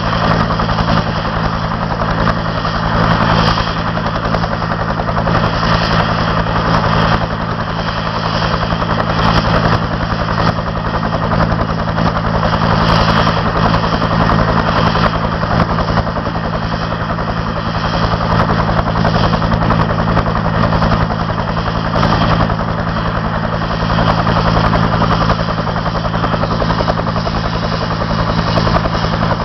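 Helicopter running steadily, its engine and rotor giving a constant, even drone with no change in pitch or level.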